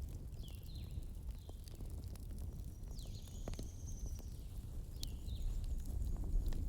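Campfire crackling, sharp snaps and pops over a steady low rumble, with a bird chirping in short calls several times, one longer call about three seconds in.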